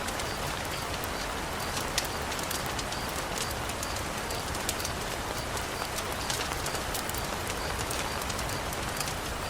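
Steady heavy rain, an even hiss scattered with sharp ticks of drops, with a faint high note repeating at a regular pace.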